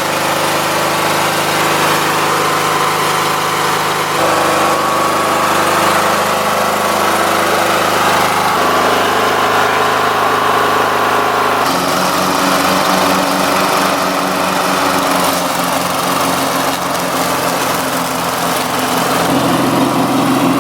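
Riding lawn mower's small engine running, kept going on a jump start. Its pitch shifts about four seconds in and again past the middle, and from then on it runs with an even, throbbing beat.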